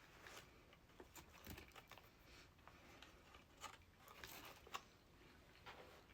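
Faint close-up eating sounds: quiet chewing with scattered soft clicks and crinkles.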